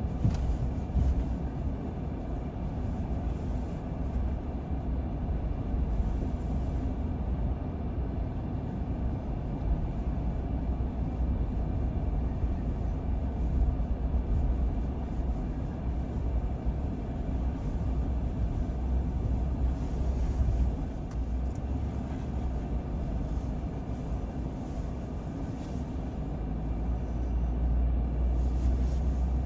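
Car driving: a steady low rumble of tyres and engine, growing a little louder near the end.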